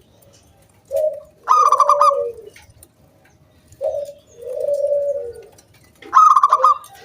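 Local zebra dove (perkutut) singing its cooing song in repeated phrases: a short rolling higher note followed by a longer, lower coo that falls away at the end. A new phrase starts near the end.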